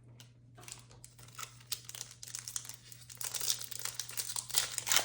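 Foil wrapper of a Topps Chrome trading-card pack crinkling and tearing as it is opened by hand, the crackle growing denser and louder toward the end.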